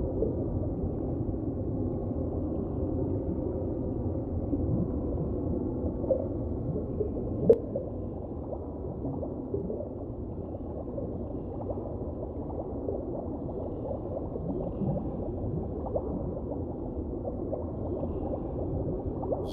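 Muffled underwater water ambience: a steady low watery rumble with small bubbling blips and one sharp click about seven and a half seconds in.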